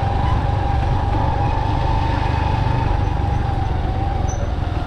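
Motorcycle riding down a long descent: a steady engine rumble with heavy wind buffeting on the microphone, and a steady whine over it that fades near the end.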